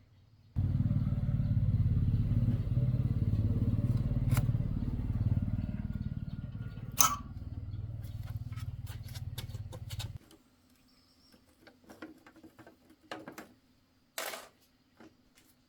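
Tractor engine running steadily with a low rumble, starting abruptly and cutting off suddenly after about ten seconds. A few sharp metallic knocks follow.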